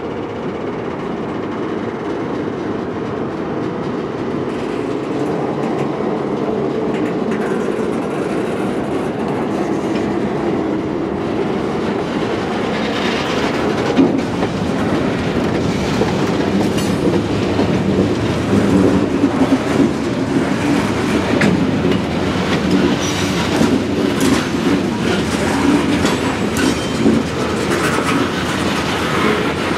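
Freight cars rolling slowly on industrial spur track, wheels clacking and knocking over rail joints, growing gradually louder as the train draws nearer.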